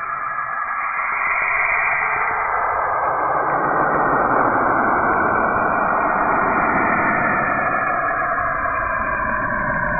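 A 'planet sound' of the kind played in planet comparison videos: a steady, eerie rushing drone like radio hiss that grows fuller and deeper about three seconds in.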